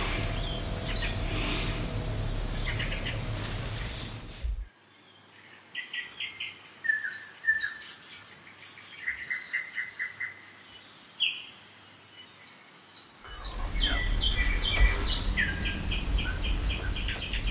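Small birds chirping in short high calls and quick runs of repeated notes, over a low steady rumble that drops away about four and a half seconds in and returns about thirteen seconds in.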